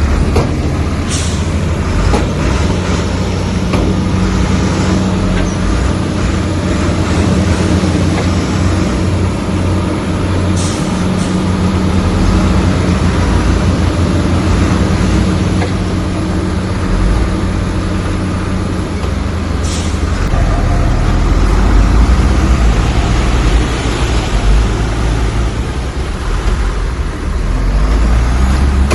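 Komatsu bulldozer's heavy diesel engine running loud and steady, its note changing and deepening about two-thirds of the way through. A brief high hiss comes three times.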